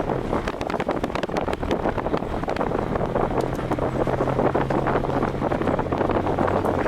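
Wind buffeting the microphone of a camera on a moving vehicle, a dense rushing with crackles, over a steady low engine drone.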